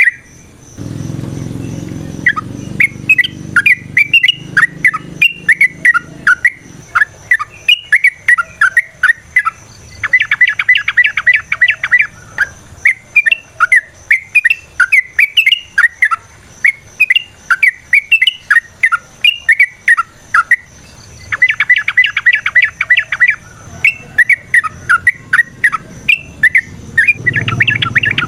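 Yellow-vented bulbul singing a long, continuous run of bubbly, sliding chattering notes, twice breaking into a fast rattle of rapid repeated notes.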